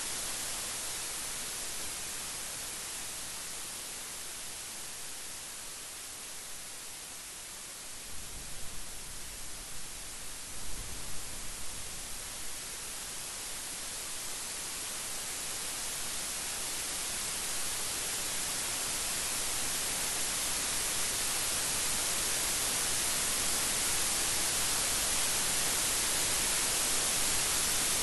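Steady rain hiss with a low rumble of thunder about eight to twelve seconds in; the rain grows louder toward the end.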